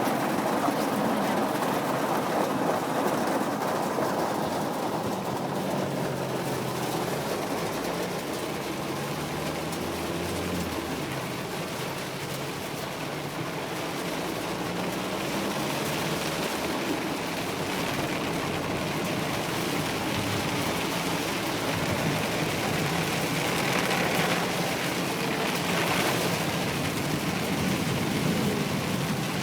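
Heavy rain pouring down as a steady hiss, with a low rumble added through the middle stretch.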